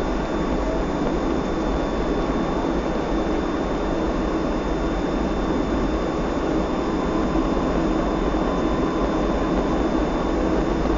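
Steady cabin noise of a Boeing 757-224 in flight: an even rumble of engines and airflow, with a thin high steady whine above it.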